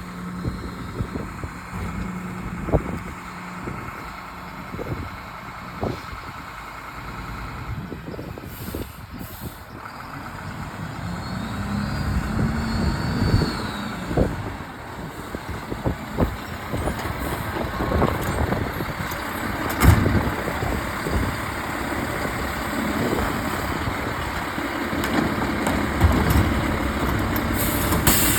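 Mack LEU garbage truck with a Bridgeport packer body at work: its diesel engine runs and speeds up about twelve seconds in, with scattered knocks and bangs, the loudest about twenty seconds in.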